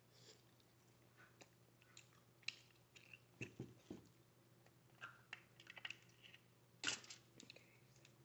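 Close-miked eating sounds: a person chewing and biting seafood-boil food, with irregular wet clicks and crunches. A cluster of louder crunches comes a little past three seconds in, and the sharpest crack about seven seconds in.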